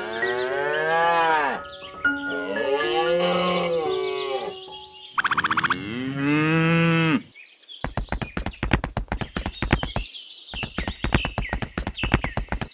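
Cow mooing three times, each long call rising and falling in pitch, with a brief rattle between the second and third. About eight seconds in, a fast run of sharp clicks starts, with high chirps over it, and runs on to the end.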